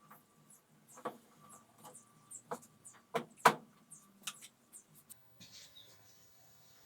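Irregular sharp clicks and knocks of parts and tools being handled during washing-machine disassembly, the loudest about three and a half seconds in, followed by a brief rustle.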